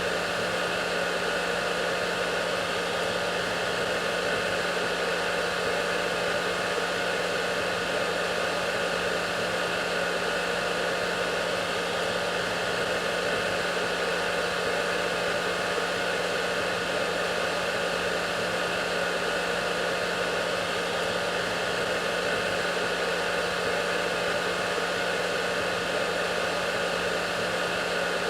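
Hair dryer running steadily: a constant rush of blown air with a steady motor hum and a few held tones.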